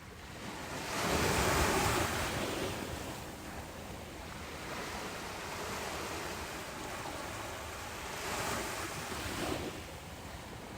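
Ocean waves breaking on a beach: a wave swells and crashes about a second in, then washes back, and a softer second wave breaks near the end.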